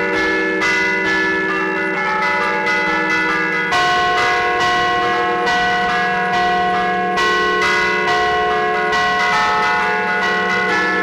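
Church bells played from a keyboard 'a martellino': hammers strike the hanging bells in a quick, even run of notes, picking out a festive allegrezza tune while the struck tones ring on and overlap.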